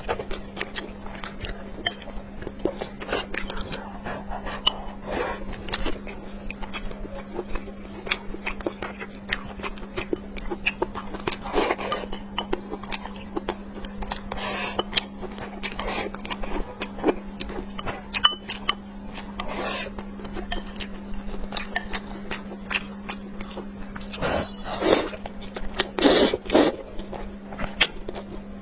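Close-miked eating of braised pork with glass noodles: irregular chewing, biting and wet mouth smacks, over a steady low hum.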